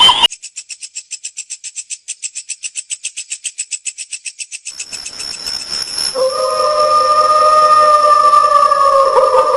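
Kuntilanak ghost sound effect. It starts as a rapid high-pitched chattering at about ten pulses a second for roughly four seconds, then gives way to a hiss and, about six seconds in, a long, high wail held almost steady.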